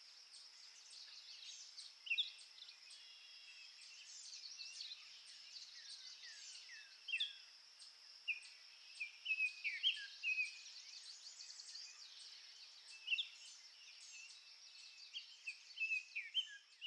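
Several birds chirping and calling in short, quick, rising and falling notes, over a steady high-pitched drone.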